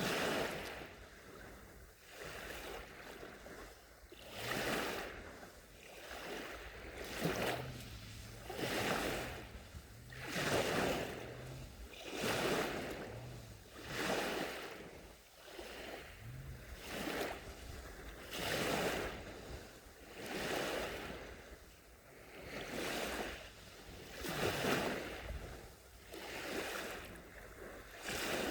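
Small sea waves washing onto a shore one after another, each a swell of hiss that rises and fades, roughly every two seconds.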